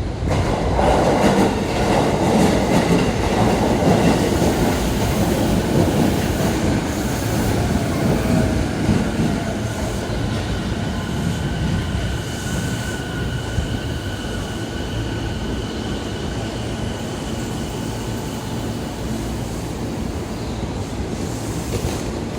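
An electric commuter train on the Tokaido Line running alongside the platform, its wheels rumbling and clacking over the rail joints. The rumble is loudest in the first several seconds and then eases, while steady whining tones carry on beneath it.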